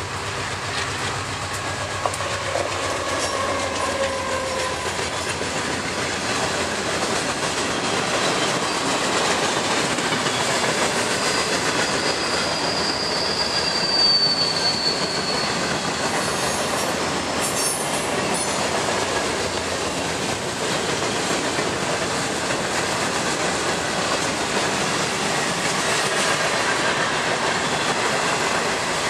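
Freight train of open-top hopper cars rolling past at close range: a steady rattle and clatter of steel wheels on the rails, growing louder over the first few seconds. A thin high wheel squeal rises out of it about twelve seconds in and fades a few seconds later.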